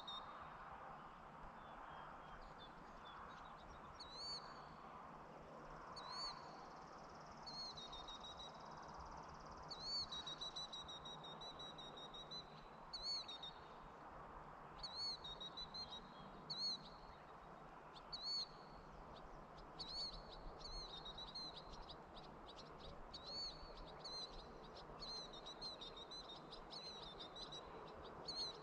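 Faint countryside ambience: a small bird calling again and again with short, arched chirps a second or two apart, coming as a quick rapid series in the last third, over a steady soft background hush.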